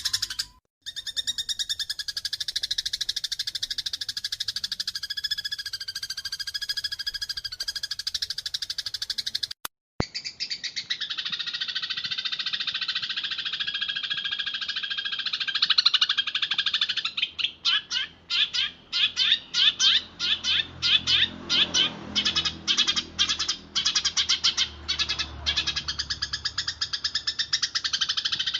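Eurasian tree sparrows chirping fast and without pause in a dense, agitated chatter: the calls of sparrows fighting. The chatter drops out briefly twice, near the start and about a third of the way in, and in the later part breaks into quick separate bursts of chirps.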